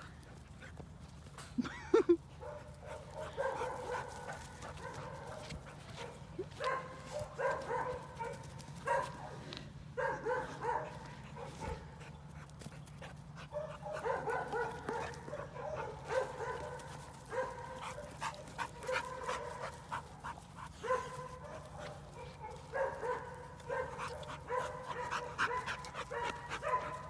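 Dogs whining and yipping in repeated bursts during play. There are two loud sharp sounds about two seconds in.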